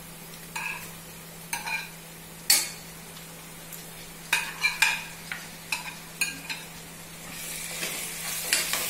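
A metal spoon stirring and clinking against a pot of onions frying in oil, a dozen or so sharp clinks with short ringing tones. About seven seconds in, a louder sizzle swells up as tomatoes go into the hot oil.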